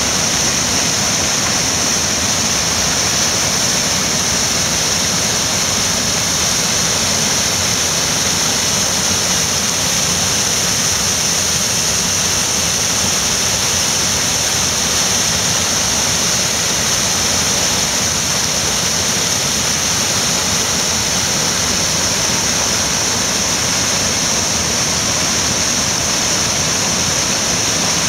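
Steady rushing of running water, even in level, with a strong hiss.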